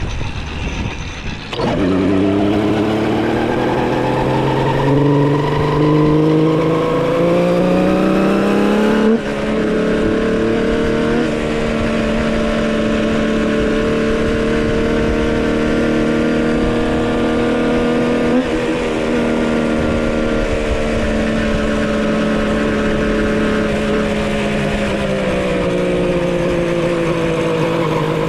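Custom-built three-cylinder two-stroke motorcycle engine being ridden during its break-in. It pulls with a rising pitch for several seconds, drops suddenly about nine seconds in, then holds a fairly steady pitch while cruising.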